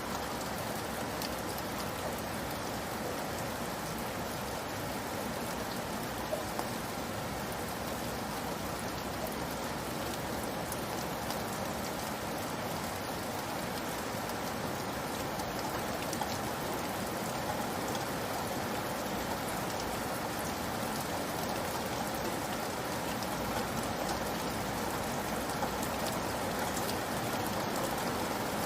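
Steady rainfall, a dense even hiss of rain with countless small drops pattering on a surface.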